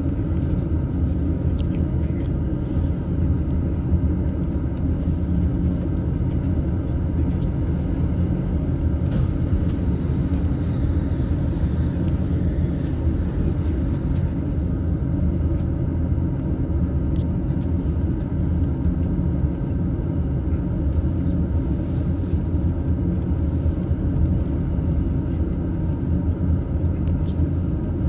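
Running noise heard inside a JR East E233-series double-deck Green car: a steady low rumble of wheels on rail as the train travels along.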